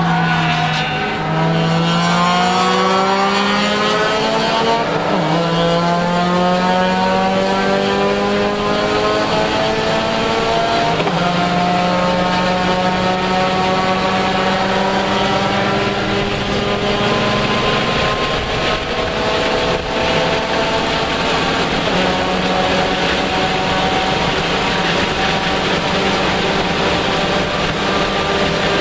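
In-cabin sound of a Lexus IS300's 3.0-litre inline-six at full throttle, pitch climbing steadily through the gears with upshifts about 5 and 11 seconds in. After the second shift it holds a high, nearly steady note at speed, with wind and road noise.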